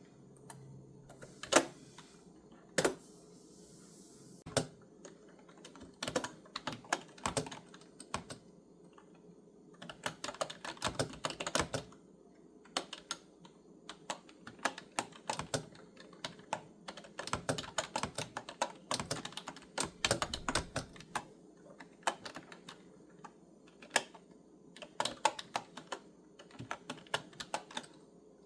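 Typing on a clicky computer keyboard: a few separate keystrokes at first, the sharpest one about a second and a half in, then quick runs of key clicks broken by short pauses from about ten seconds on.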